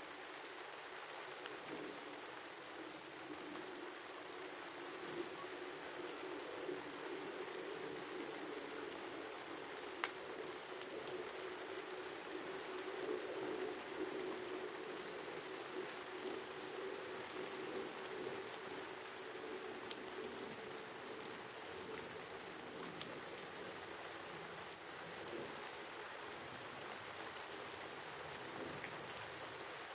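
Wood fire burning with a steady crackle and hiss, broken by scattered sharp pops; the loudest pop comes about ten seconds in.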